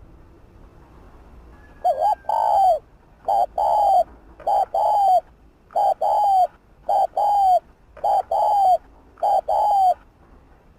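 Spotted dove cooing: a rapid run of about seven coos, roughly one a second, beginning about two seconds in. Each coo is a short note followed by a longer one that drops in pitch at its end.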